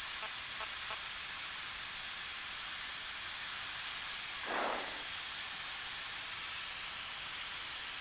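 Steady hiss of the Cessna 172's cockpit audio on final approach, with a few faint ticks early and one short rush of noise about four and a half seconds in.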